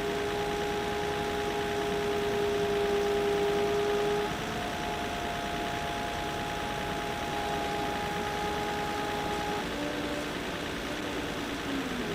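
Engine of a heavy tree-felling machine running steadily, with a steady whine that shifts pitch about four seconds in and again near ten seconds.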